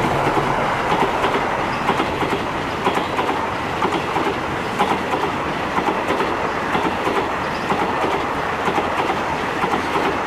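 Passenger coaches of a long express train rushing past at speed: a steady rumble of wheels on rail, with repeated clicks as the wheels run over rail joints.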